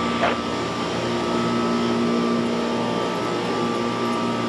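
Steady mechanical drone with a few held tones underneath it, and one short squeak about a quarter of a second in.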